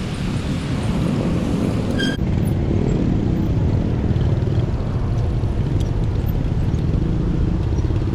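Road traffic heard from a moving bicycle, a dense low rumble of vehicles, with a short high beep about two seconds in.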